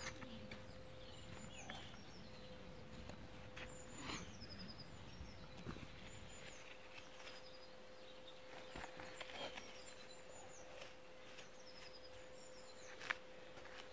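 Small songbirds singing in the background, short high chirps and little trills every second or two, over a faint outdoor hush with a thin steady tone. A few soft knocks come through, around four seconds in, near six seconds, and near the end.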